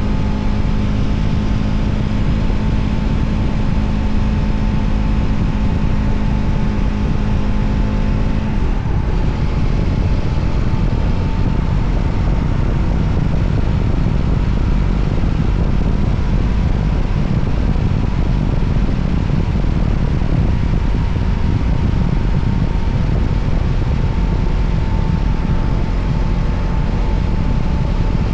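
Voge 300ACX motorcycle engine running steadily under way, mixed with a dense rushing noise. About eight seconds in the engine note changes and settles into a new steady pitch.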